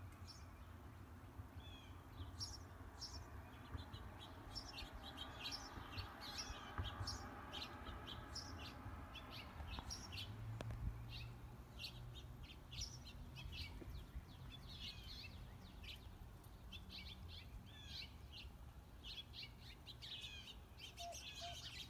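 Small birds chirping and twittering with many short, quick calls, thickening toward the end, over a steady low outdoor rumble.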